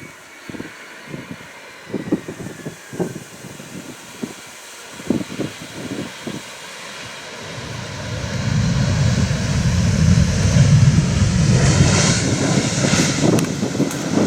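Airbus A320 jet airliner on its landing approach, its engine rumble swelling from about halfway through and loudest near the end as it comes close. Faint irregular thumps on the microphone come before it.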